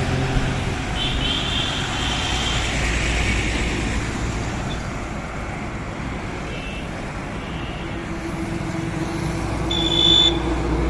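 Highway traffic noise: a steady low rumble of vehicle engines and tyres. A short high-pitched tone about ten seconds in is the loudest moment, and a fainter one comes about a second in.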